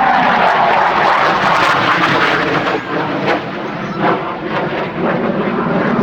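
Alenia Aermacchi M-346 Master jet trainer's twin turbofan engines making loud jet noise as it flies past, with a falling whine near the start and a crackling rush that eases slightly near the end.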